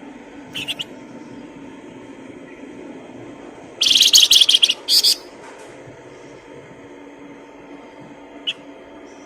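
Songbird singing in short bursts of high, rapid chirps: a brief phrase near the start, a loud fast trill about four seconds in lasting about a second with a second short burst right after, and a single chirp near the end, over a faint steady hum.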